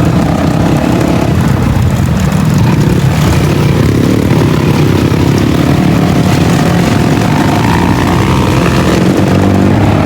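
Dirt bike engine running steadily while riding, loud, with wind rushing over the microphone.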